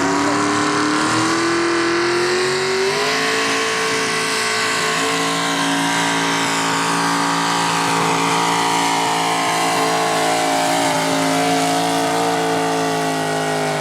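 Mini rod pulling tractor's engine running at full throttle during a pull, its pitch climbing over the first few seconds and then held high and steady.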